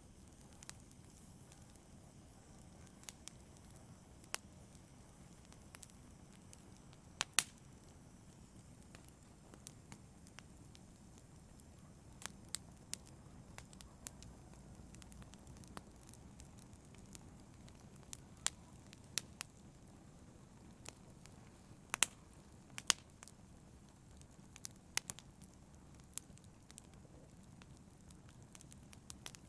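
Wood fire crackling: irregular sharp pops and snaps, a few louder than the rest, over a low steady rush of burning.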